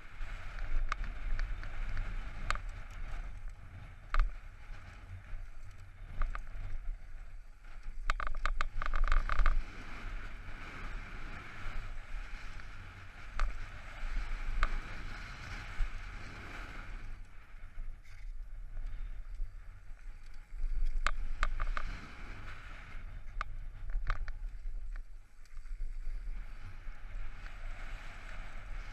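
Mountain bike descending a rough trail: tyres rolling and the bike clattering over bumps, with wind rumbling on the microphone throughout. The clattering is thickest about eight to nine seconds in.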